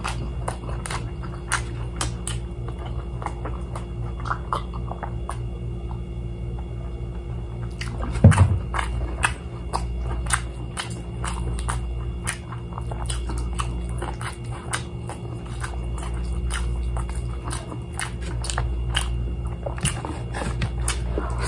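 Close-up chewing and biting of crispy deep-fried chicken, with many small crunches and mouth clicks over a steady low hum. There is one louder knock about eight seconds in.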